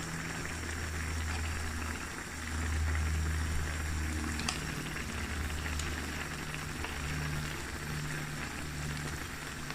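Pot of brown stew chicken simmering, a steady bubbling hiss with a low hum underneath.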